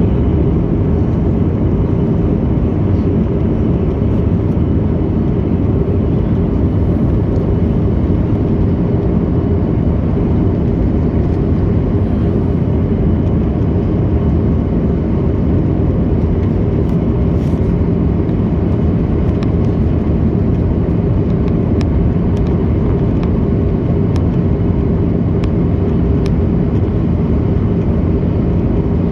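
Airliner passenger-cabin noise in flight: a loud, steady low rumble of engines and airflow. A few faint ticks come in the second half.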